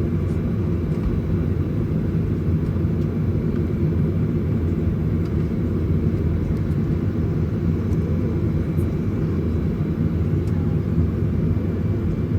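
Steady low rumble inside the passenger cabin of a Boeing 737-900ER on the ground before takeoff, with a few faint clicks over it.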